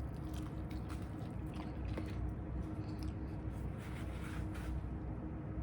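Close-up chewing of a chicken wing coated in Flamin' Hot chip crumbs: soft, moist mouth sounds with scattered small clicks.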